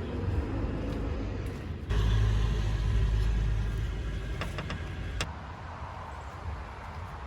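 Motor vehicle running with a low rumble that gets suddenly louder about two seconds in, then drops abruptly to a quieter rumble near the five-second mark, with a few short clicks.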